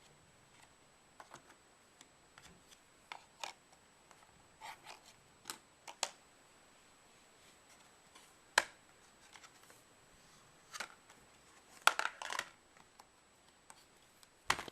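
Scattered light clicks and taps of small magnetic toy pieces being handled and set in place on a board, with a quick run of clicks about twelve seconds in.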